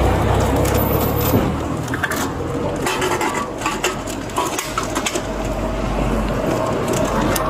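Objects being handled and moved about, giving a run of rustles, clicks and knocks that becomes more frequent from about two seconds in, over a low traffic rumble.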